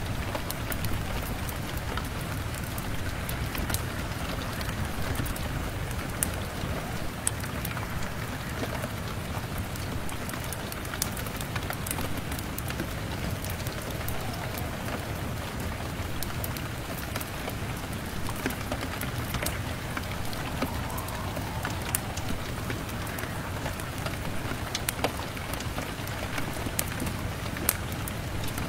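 Steady rain pattering on window glass, with scattered sharp crackles and pops from a fire.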